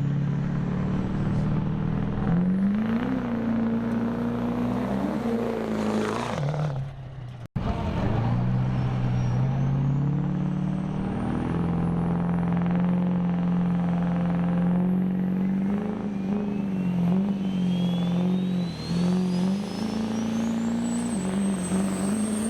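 Turbocharged diesel truck engine running loud, with a brief cut about a third of the way in. A turbo whistle climbs steadily in pitch over the last several seconds as it spools up.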